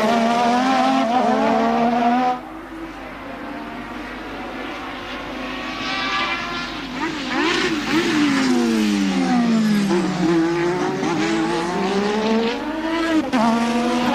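1988 Formula One race car engines at high revs. The note climbs through the gears, drops away suddenly about two seconds in, then a car goes by with its pitch falling steeply near the middle before climbing again, with another sudden change near the end.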